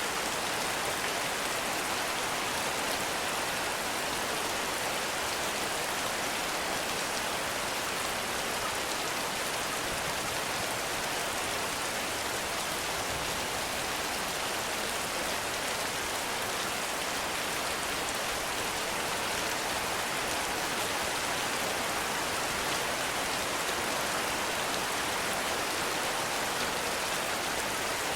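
Heavy rain falling steadily in a forest, an even rushing hiss with no thunder or other sounds standing out.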